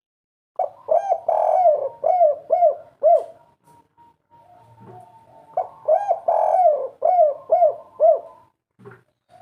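Spotted dove (tekukur) cooing its 'kuk 3' song twice, about five seconds apart. Each phrase is a longer opening coo followed by three short, arched 'kuk' notes.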